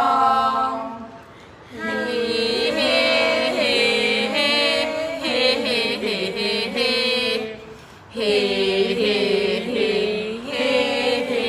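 Thai boat-song verse (kap he ruea) sung in the traditional drawn-out melody, long held, wavering vocal phrases with two short breaks for breath, about a second and a half in and about eight seconds in.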